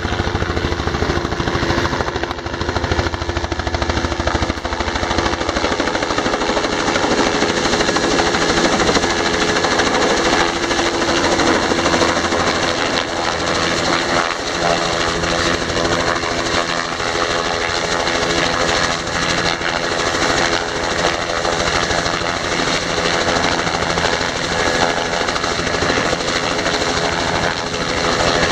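Helicopter running close by: a fast, steady chop of rotor beats over a steady engine tone. It cuts in suddenly at the start.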